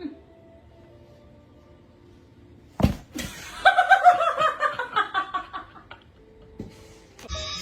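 A sharp smack or thump about three seconds in, followed by a burst of high-pitched human laughter for about two seconds, in rapid pulses that fall in pitch.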